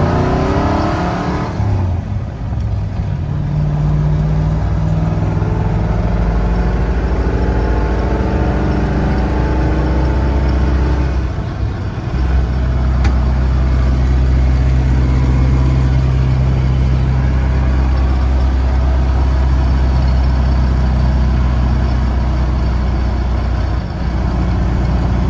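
Ford 351 V8 of a pickup truck running on the road. The engine note climbs slowly through the first half, dips briefly about halfway through, then holds a steady pull.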